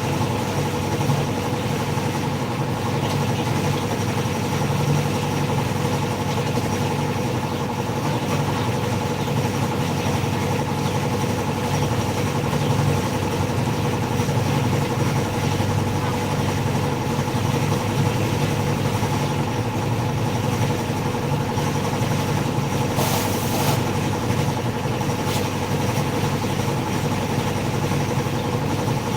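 An engine running steadily with an even hum, with a brief rush of noise about 23 seconds in.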